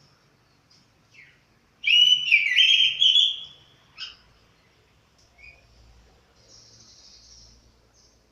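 Chestnut-capped thrush (anis kembang), a caged bird just out of its molt, singing: a loud warbled phrase of whistled notes lasting about a second and a half, a couple of seconds in, with short chirps and a sharp call around it.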